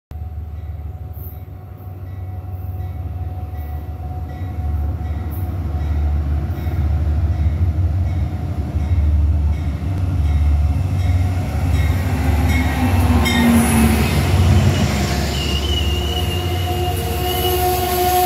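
An Amtrak passenger train led by a P32AC-DM diesel locomotive arrives, its low rumble growing louder as it approaches and swelling as the locomotive draws level. The cars then roll past close by, with a high squeal from the wheels as the train slows for the station.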